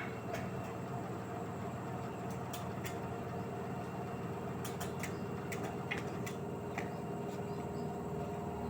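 LG 8 kg direct-drive washing machine running its cotton 60 °C wash: a steady motor hum with a few fixed tones and scattered light clicks.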